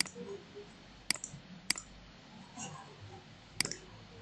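Computer mouse clicking: four sharp single clicks at uneven intervals over faint steady room hiss.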